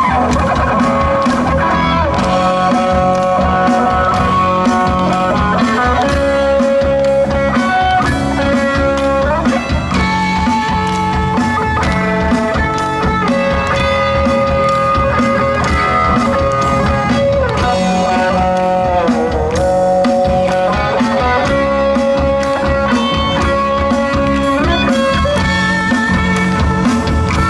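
Live rock band playing an instrumental passage: an electric guitar lead holds and bends notes over bass and a steady drum beat.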